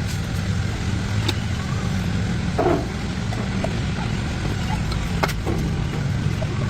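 An engine or motor running steadily with a low rumble, with a few short clicks and knocks over it.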